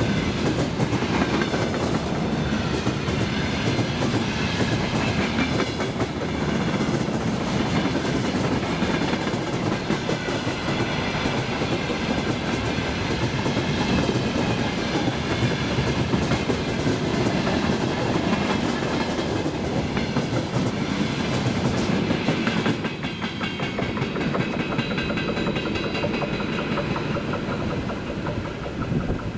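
Freight train of open gondola wagons rolling past, wheels clacking steadily over the rail joints with a continuous rumble. The sound eases somewhat about 23 seconds in.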